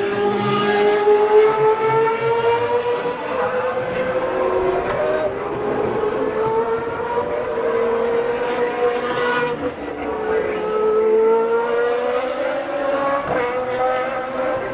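GP2 race cars' naturally aspirated 4-litre Mecachrome V8 engines screaming at high revs, the pitch climbing slowly under acceleration, dropping once about ten seconds in and climbing again.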